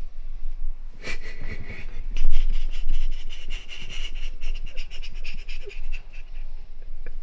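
A sleeping person breathing heavily: a short breath about a second in, then one long fluttering breath lasting about four seconds.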